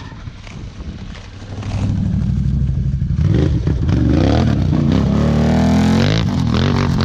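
Can-Am ATV's 1000 cc V-twin through an RJWC aftermarket exhaust, running low at first, then revving up from about three seconds in, with quick repeated throttle blips near the end.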